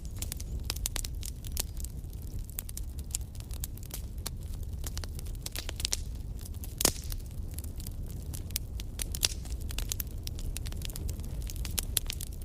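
Wood fire in a fireplace crackling, with irregular sharp snaps and pops over a low steady rumble of the flames; one louder pop about seven seconds in.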